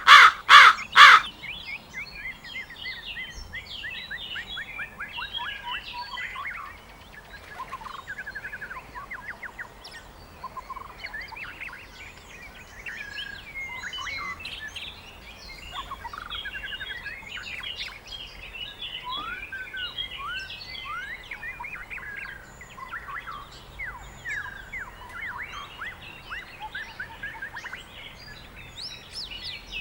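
A hooded crow caws a few times in the first second. Then a chorus of small songbirds chirps and trills, with many short rising notes and quick trills overlapping.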